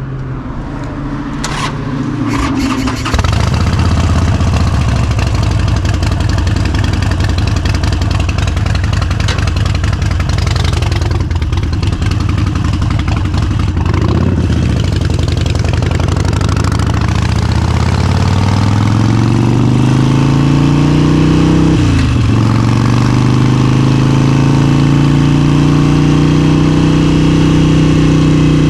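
Harley-Davidson Forty-Eight V-twin motorcycle engine starting up and then running. Its pitch climbs over several seconds as the bike speeds up, breaks briefly about two-thirds of the way in like a gear change, then runs on steadily.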